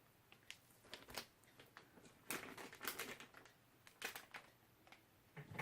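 Faint scattered clicks, light knocks and rustles of hands handling and moving a silicone mold of freshly poured resin, a cluster of them a little over two seconds in.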